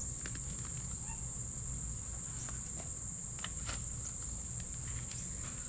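Insect chorus: a steady, high-pitched trill that does not let up, over a low rumble, with a few faint scattered clicks.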